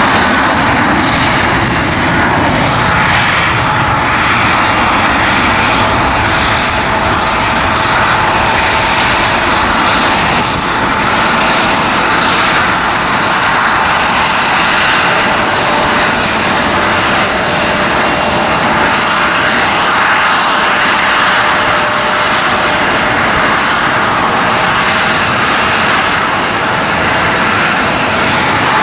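Airplane engines running, a loud steady rush with a faint steady whine that holds without change.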